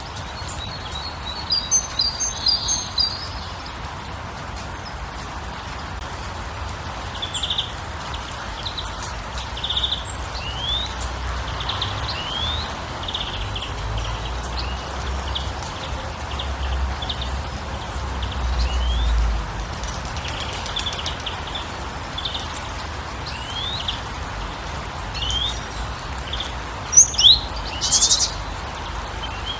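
Birds chirping: many short rising chirps, a brief high trill about two seconds in, and louder calls near the end, over a steady rushing background noise. A low rumble swells in the middle.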